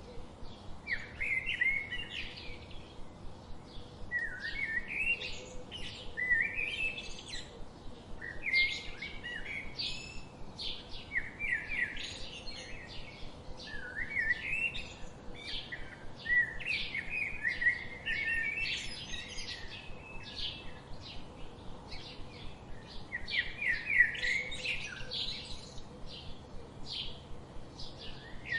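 Wild songbirds singing and chipping: a short song phrase about every two seconds among many quick chip notes.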